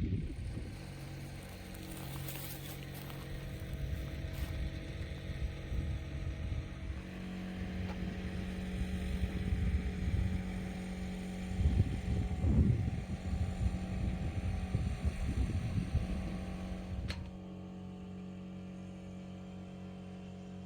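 A vehicle engine running steadily, with low gusty rumble like wind on the microphone. About seventeen seconds in the sound changes abruptly to a quieter steady hum.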